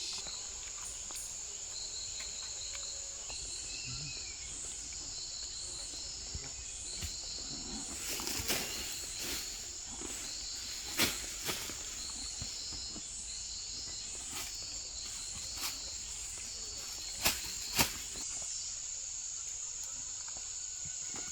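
Insects calling in a steady high-pitched drone, with short chirp trains repeating above it. A few sharp knocks stand out, two close together around the middle and two more near the end.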